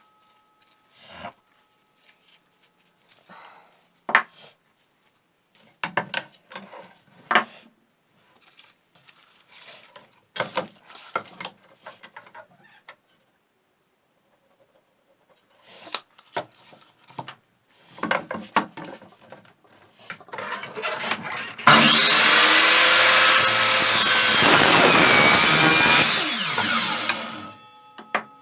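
Tools and parts being handled with scattered knocks and scrapes, then about two-thirds of the way through a power tool runs loudly for about four seconds, its pitch gliding, before winding down.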